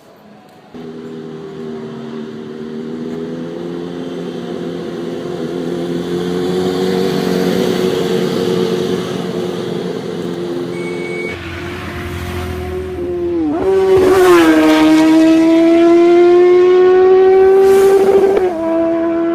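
A superbike engine running at high revs, loud, its note holding and slowly climbing. About halfway through the sound changes abruptly. The pitch then dips briefly and climbs again, holds high, and falls back near the end.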